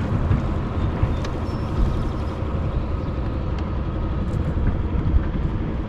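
A motor running steadily with a low rumble and a faint even hum, mixed with wind rumble on the microphone.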